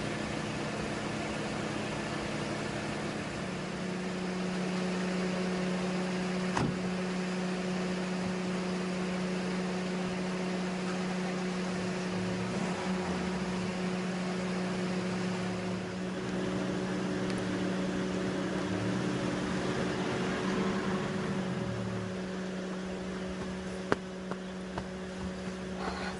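Car engine running at idle with a steady hum, its pitch briefly dipping and rising a few times.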